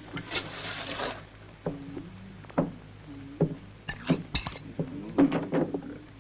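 A spoon clinking and scraping on a plate of beans. There is a brief scrape near the start, then a string of irregular sharp clinks.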